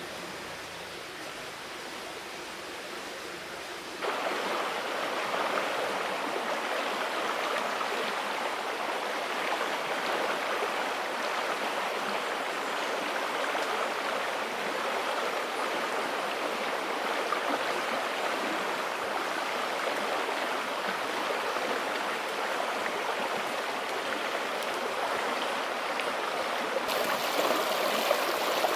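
Steady rush of flowing stream water, jumping sharply louder about four seconds in.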